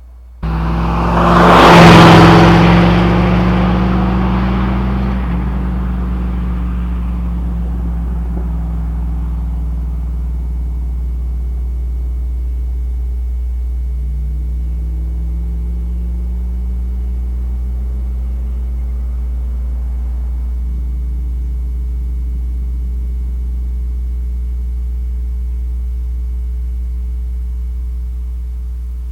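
5.3L LM7 V8 running through a Cherry Bomb chambered muffler, accelerating hard: it comes in suddenly and is loudest about two seconds in. About five seconds in the pitch drops as on an upshift, and the engine then pulls steadily, its note drifting slowly up and down over a constant low rumble.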